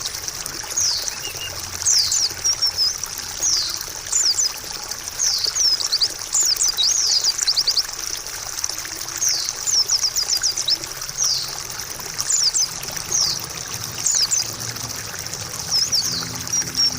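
White-eye (pleci) song: repeated clusters of quick, high sweeping chirps and trills, over steady trickling water.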